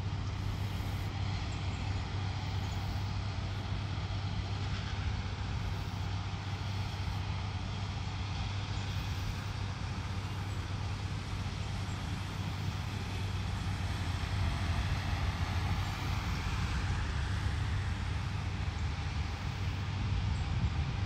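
A steady low hum with an even rushing noise over it, unchanging, with no distinct events.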